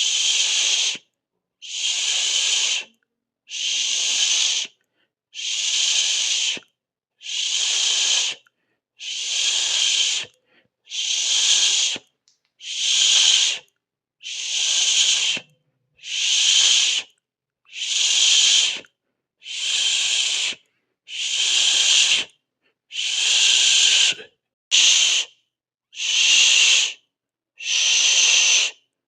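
Repeated hissing, 'sss'-like bursts about a second long separated by short silent gaps, roughly one every one and a half seconds; one burst near the end is cut short.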